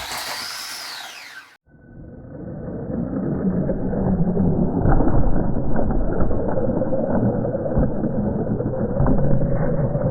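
Remote-control monster truck running and driving into Lego: a brief whoosh with a falling pitch, then a dull, muffled rumbling scattered with clattering knocks that builds over the next few seconds and holds.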